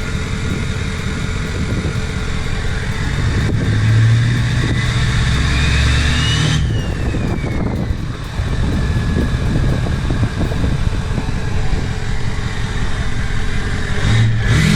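Ford F550 Super Duty diesel with a straight-piped 4-inch exhaust, revved hard about three seconds in; a whistle climbs with the revs, then falls away as the engine drops back to idle. Another rev starts near the end.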